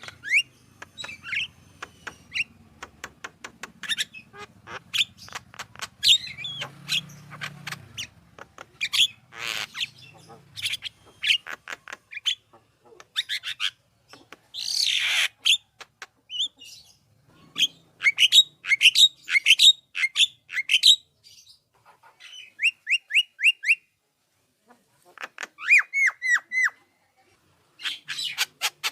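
Javan myna singing in a busy, varied run of short chirps, whistles and clicks. There is a harsh squawk about halfway through, and later two quick trills of rapidly repeated notes.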